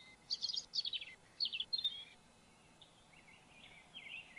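Songbirds chirping: a quick run of short high chirps in the first two seconds, then softer, lower warbling near the end.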